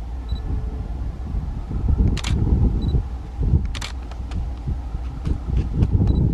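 Wind buffeting the microphone in gusts over the low rumble of a long double-stack container train rolling past at a distance. Two sharp clacks come about two and four seconds in.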